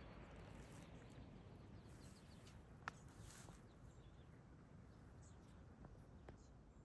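Near silence: faint outdoor ambience with a low rumble, a few faint brief high chirps or ticks, and a single sharp click about three seconds in.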